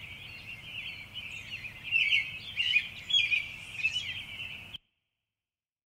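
Small birds chirping and twittering, a busy background of many short chirps that cuts off suddenly near the end, leaving silence.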